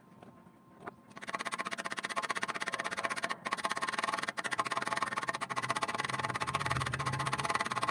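Stick-welding arc with an E6013 rod, struck about a second in and crackling and sputtering steadily. It cuts off abruptly near the end.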